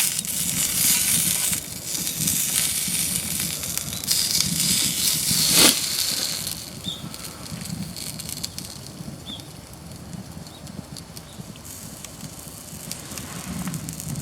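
Campfire crackling and hissing, louder in the first half, with one sharp knock about six seconds in.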